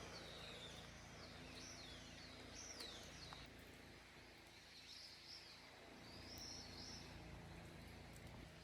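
Faint songbird singing a run of quick, swooping whistled phrases, over a low steady outdoor background hum.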